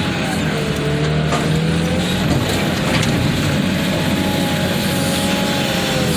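Heavy diesel machinery running steadily under load, with a drawn-out whine that wavers slowly up and down in pitch and a few sharp metallic cracks.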